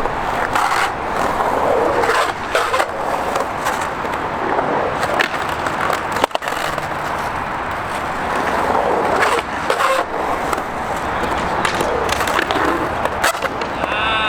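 Skateboard wheels rolling on the skatepark surface, with repeated sharp clacks of boards popping and landing.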